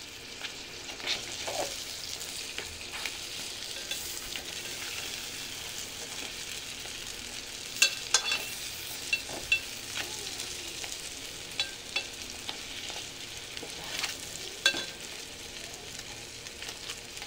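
Stuffed crabs frying in oil in an aluminium pot with a steady sizzle, while a metal spoon turns them over, scraping and clacking against the pot several times around the middle and again near the end.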